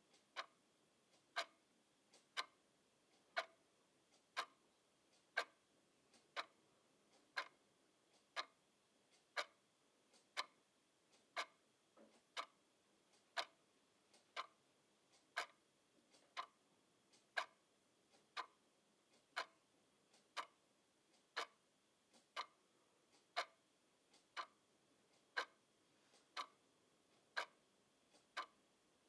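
Clock ticking steadily at about one tick a second, each tick a sharp click.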